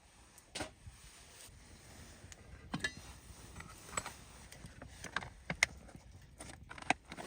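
A few scattered sharp clicks and taps, irregularly spaced, over a faint steady background.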